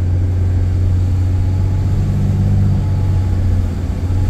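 Steady low drone of a car being driven, heard from inside the cabin: engine and road noise.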